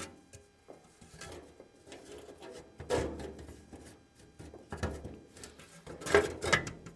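Scattered knocks, clinks and rubbing of tools and parts being handled during the teardown of a tractor, with one louder knock about three seconds in and a cluster of knocks near the end.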